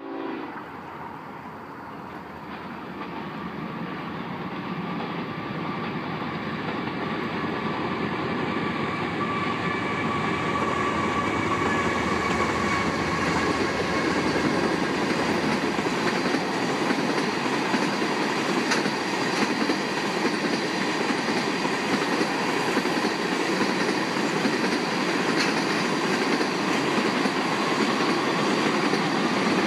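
Long freight train of crude-oil tank cars rolling past on the rails: a steady rolling noise of wheels on track that grows louder over the first several seconds and then holds, with a faint high squeal from the wheels in the first half.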